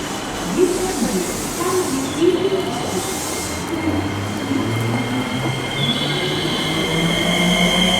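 Electric commuter train running at the platform, with a high wheel squeal. From about halfway its motor whine climbs steadily in pitch.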